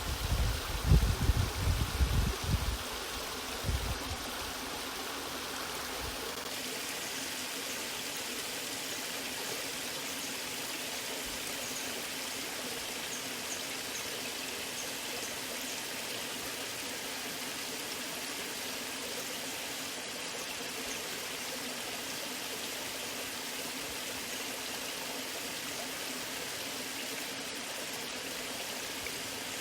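Waterfall water rushing in a steady, even stream. Low rumbling thumps come in the first few seconds.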